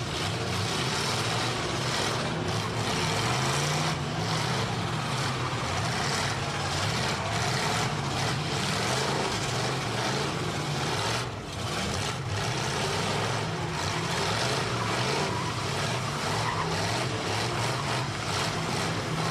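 Demolition derby car engines running and revving, their pitch rising and falling over a dense, steady mechanical din.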